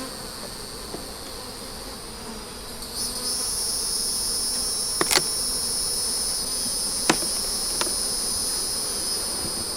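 Honey bees humming around an open hive, joined about three seconds in by a high, steady insect trill that carries on. Three sharp clicks stand out over it.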